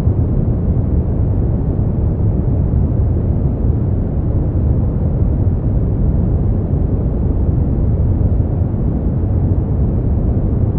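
Steady, unchanging noise from a white-noise sleep track. It is deep and muffled, with most of its weight low down and no high hiss.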